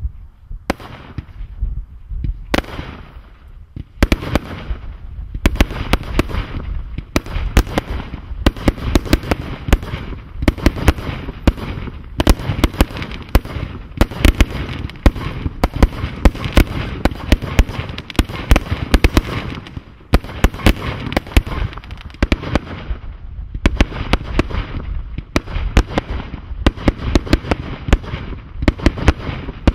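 The Thunder King firework going off: a few separate loud bangs in the first few seconds, then a dense, rapid run of bangs and crackles with a low rumble that continues to the end, briefly thinning twice in the latter half.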